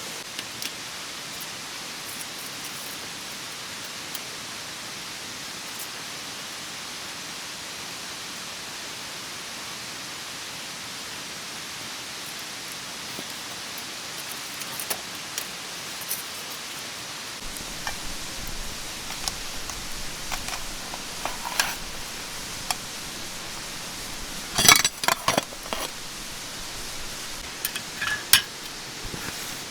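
Steady rush of a mountain stream, with scattered clicks and clinks of camp gear being handled in the second half and a louder cluster of clinks near the end.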